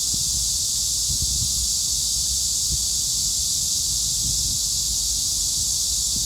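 Chorus of cicadas singing together, a continuous high-pitched buzzing drone that holds steady without a break, over a low rumble.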